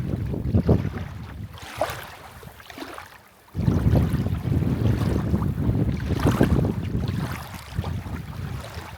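Wind buffeting the microphone in gusts, a low rumble that dies down briefly and comes back strongly about three and a half seconds in.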